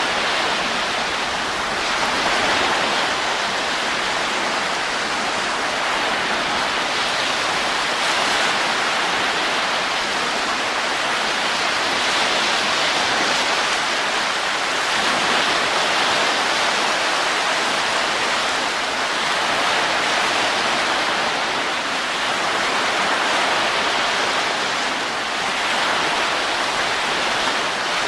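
Steady rushing wind, a continuous hiss-like noise without any tune, rising and falling gently in slow swells every several seconds.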